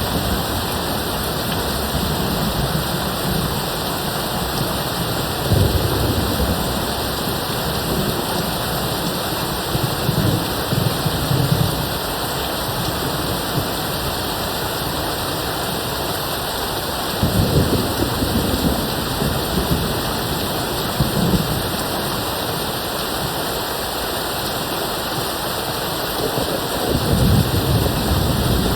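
Steady rain with distant thunder rumbling in low rolls that come and go several times, the strongest about six, seventeen and twenty-seven seconds in.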